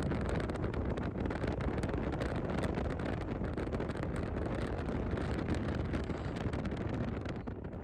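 Steady noise of a moving vehicle on the road, with wind buffeting the microphone and small rattles throughout.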